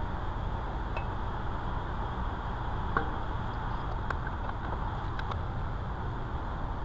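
Steady low background rumble and hiss with a few faint, light clicks and taps.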